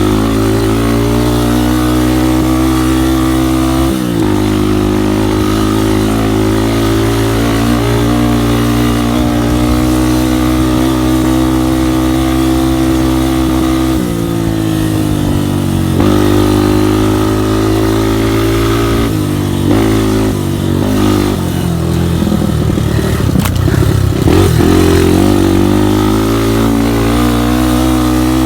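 Trail motorcycle engine running under way, holding a fairly steady pitch, with short drops and rises in revs about 4, 14, 16 and 20 seconds in as the throttle is eased and reopened.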